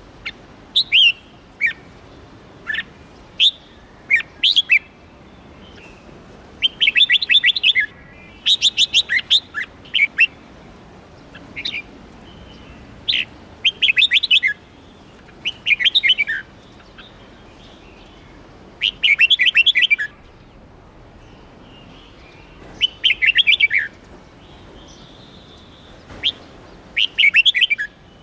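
Red-whiskered bulbul singing: short phrases of rapid, high chirping notes, each about a second long, repeated about a dozen times with pauses between.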